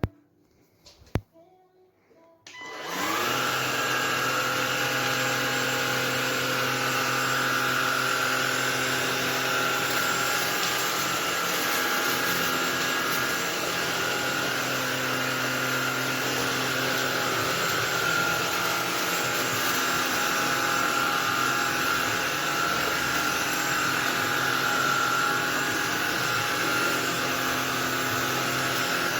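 MONSGA cordless stick vacuum cleaner with a brushless motor: two clicks, then about two and a half seconds in the motor starts up and runs steadily with a high whine.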